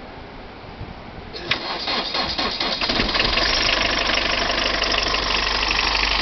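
Car engine being jump-started: cranks for about a second and a half, catches, and settles into a steady idle.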